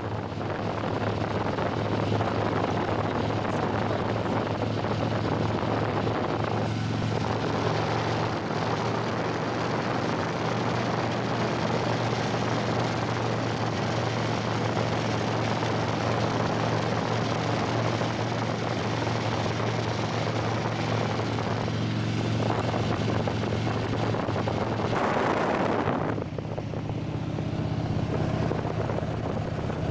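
Motorcycle engine running steadily at cruising speed, with wind and road rush over the microphone; the rush swells briefly about 25 seconds in, then eases.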